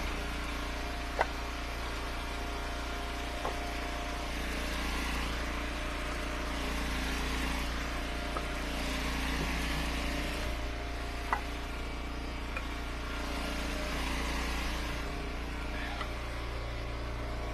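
Eastonmade Ultra wood splitter's engine running steadily. A few sharp cracks and knocks come through as firewood rounds are split.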